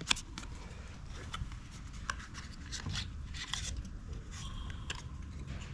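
Light rubbing, scraping and small clicks of hand-work at the ignition coil and flywheel of an Echo PB-265L backpack blower. A business card is being used as a gauge to re-gap the coil, which had been hitting the flywheel magnets.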